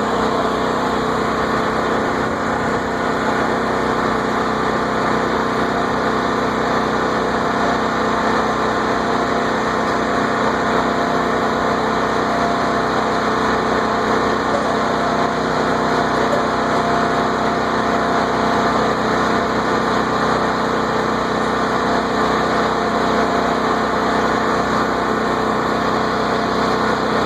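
An engine running steadily, with an even hum that does not change.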